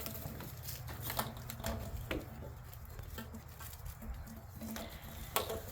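Shiba Inu puppies scuffling at play: scattered light taps and scrapes, over a steady low rumble.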